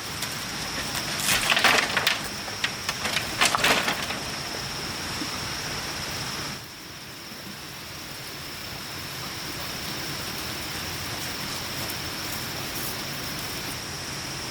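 Two short bursts of crackling and snapping, like dry wood or brush being broken, about two seconds apart, over a steady high-pitched hiss.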